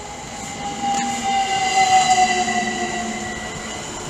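Class 387 Electrostar electric multiple unit arriving, its traction motor whine falling slowly in pitch as the train slows.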